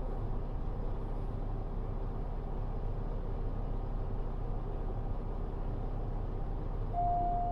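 Cabin sound of a JR KiHa 40 diesel railcar with its N-DMF13HZB diesel engine running steadily, a low even rumble. A steady high tone begins near the end.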